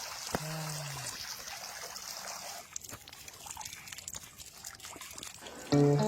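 Water trickling and splashing, with a short falling vocal call about half a second in and faint scattered clicks after it. Strummed guitar music comes in loudly near the end.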